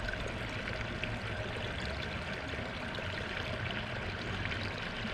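Water running steadily over the rocks of a pondless waterfall and stream.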